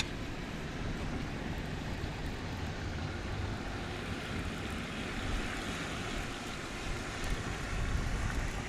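Wind buffeting the microphone outdoors, a steady low rumble and rushing noise, with one sharp click right at the start.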